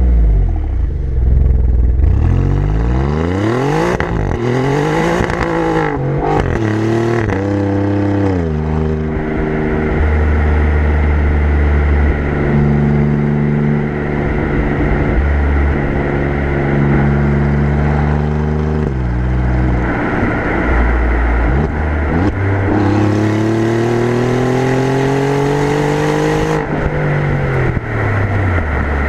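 Alfa Romeo Giulia Quadrifoglio's twin-turbo V6 exhaust while driving. The engine note rises and drops several times through gear changes over the first nine seconds or so, holds steady at a cruise, then climbs again under acceleration before falling off near the end.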